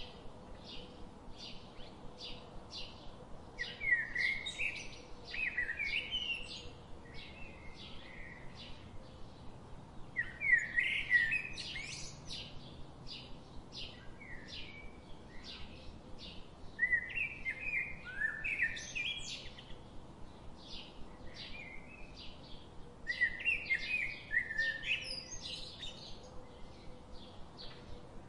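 Birds chirping and singing: a steady run of short, high chirps about two a second, with a louder warbling song phrase coming in roughly every six seconds.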